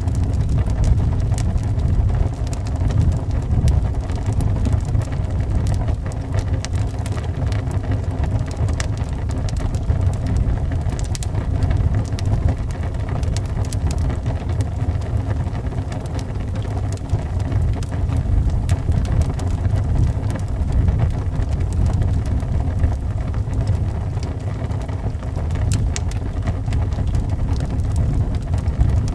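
Howling wind as a steady low rumble that swells and eases, with the scattered sharp pops and crackles of a burning wood fire.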